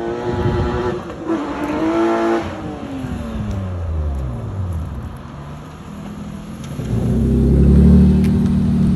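Car engine revving up, then its pitch falling away, followed about seven seconds in by a loud, low engine running.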